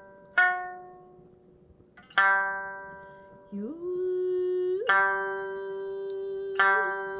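Sanshin, the Okinawan three-stringed lute, plucked in single notes about every two seconds, each ringing out and fading. About halfway through, an ocarina joins with a held note that slides up into pitch and stays steady.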